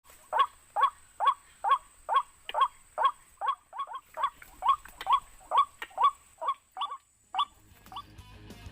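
White-breasted waterhen calling: a steady series of short, harsh 'kwak' notes, about two a second, which stop about eight seconds in.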